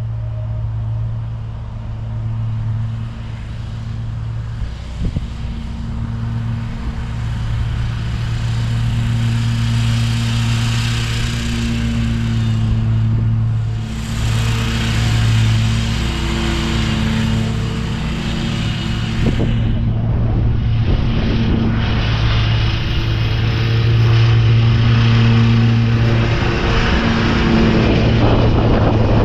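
Commercial lawn mower engine running steadily under load, its blades cutting and mulching leaves.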